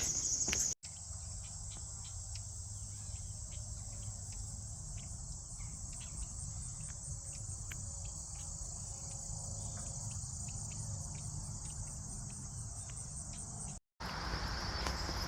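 Insects, crickets or the like, chirring in a steady high-pitched drone over a low steady rumble. The drone breaks off and changes pitch at two cuts, about a second in and near the end.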